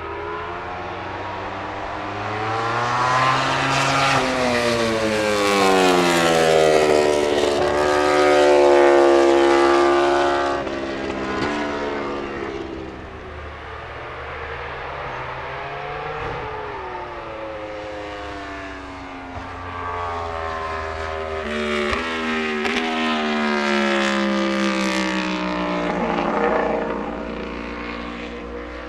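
MotoGP prototype race bikes, 1000 cc four-cylinder four-stroke engines at high revs, passing on track, their pitch swinging up and down with gear changes and throttle. Two louder pass-bys: one building from about three seconds in, another from about twenty seconds in.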